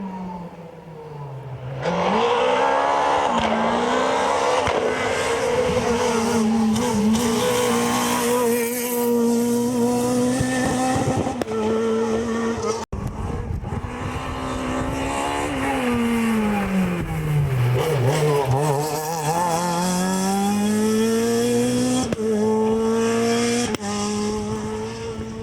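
Renault Clio R3 rally car's four-cylinder engine pulled hard, its pitch climbing and snapping down at quick gear changes. About halfway through, the revs fall away steeply as the car slows, then climb again as it accelerates back up through the gears.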